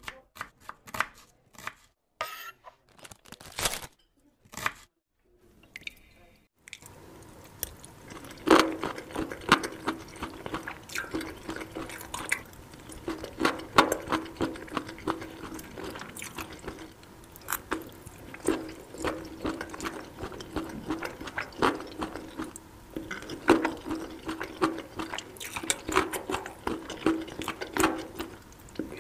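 A few sharp knife taps at first, then from about seven seconds in close-miked eating of boneless chicken feet in spicy sauce: wet, sticky chewing and lip smacks with crisp crunchy clicks.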